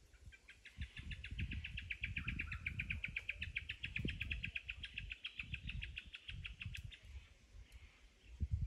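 A bird singing one long, rapid trill of evenly repeated high notes, about ten a second. It lasts some six seconds and stops near the end. Low, irregular rumbling runs underneath.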